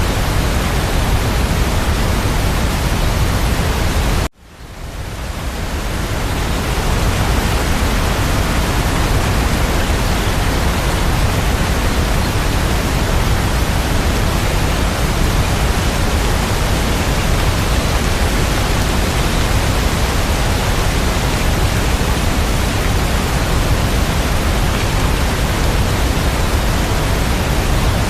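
Steady, even rain noise with no separate drops or thunder. It cuts out abruptly about four seconds in and fades back up over about two seconds, like a loop point in the track.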